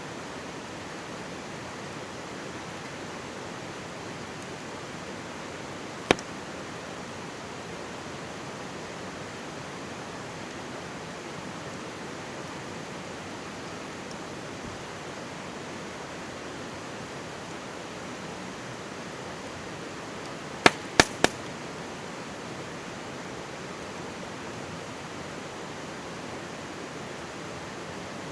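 Steady rushing of a mountain stream, with a wood campfire giving one sharp pop about six seconds in and a quick run of three pops about three quarters of the way through.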